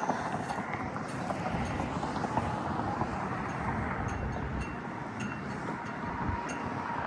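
Outdoor background noise, a steady rushing haze like wind on the microphone, with light footsteps at a walking pace.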